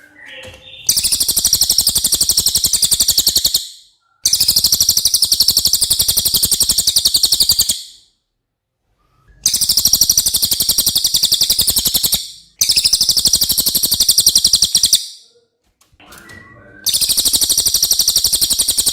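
Cililin songbird singing a high, very fast trill of evenly repeated notes, in five bursts of about three seconds each with short pauses between them.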